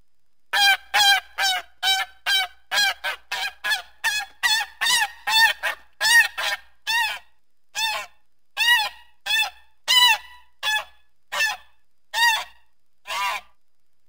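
A goose honking over and over in a long run of short, nasal honks, about two a second, each one rising and then falling in pitch.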